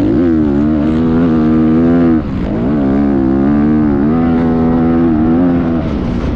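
Motocross bike engine running hard under throttle, its pitch wavering up and down, with brief drops in revs about two seconds in and again near the end.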